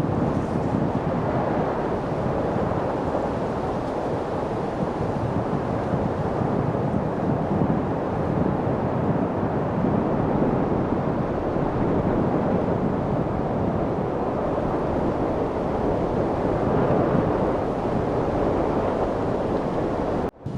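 Steady wind noise: an even, rushing hiss with no gusts, dropping out for an instant near the end.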